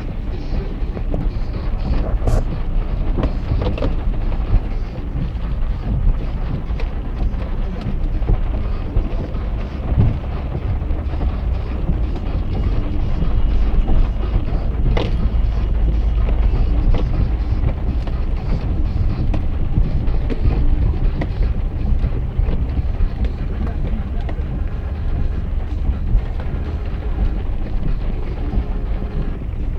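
Steady low rumble of a vehicle in motion, with a few brief knocks.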